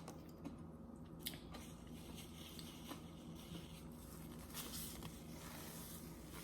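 Faint chewing and mouth sounds, with a few small clicks, over a low steady hum.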